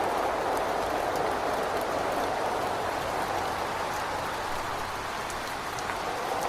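Steady rain against a window, with scattered drop ticks, and gusting wind in the mix that eases off slightly toward the end.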